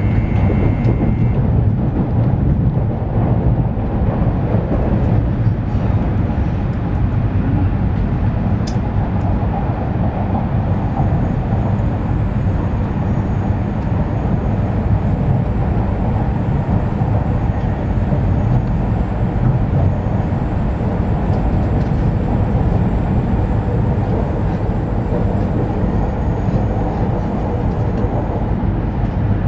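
Steady running noise heard inside the cabin of an E2 series Shinkansen rolling at low speed just before its arrival at the station: a low rumble with a faint high whine through the middle.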